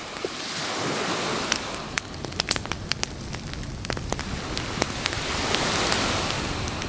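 Campfire crackling and popping, with sharp snaps scattered throughout, over the hiss of waves washing in on the beach that swells up about a second in and again near the end.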